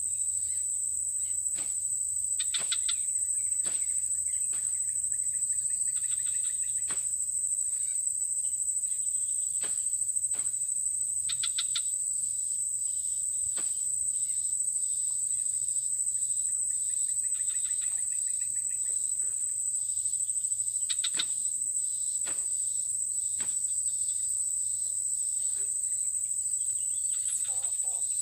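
Steady, high-pitched drone of insects such as crickets, with a few short chirping trills and scattered clicks over it.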